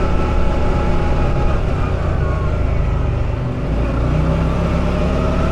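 A buggy's engine running as it drives along, with a short dip in level about three and a half seconds in before the engine note carries on.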